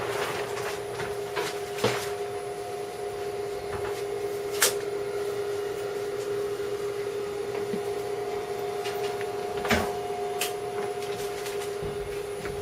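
A steady electric motor hum, one constant pitch with a higher overtone, broken by a few sharp clicks or knocks about two, four and a half and ten seconds in.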